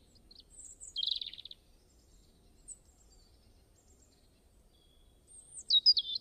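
Small birds chirping over faint outdoor background noise. There is a short buzzy trill about a second in, then a run of quick, high, warbled notes near the end.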